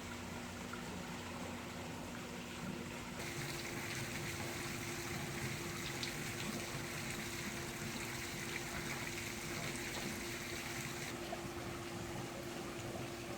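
2022 Triumph Bobber's 1200 cc parallel-twin engine idling steadily through a Delkevic exhaust with the baffle fitted. It gets a little louder and brighter from about three seconds in until about eleven seconds.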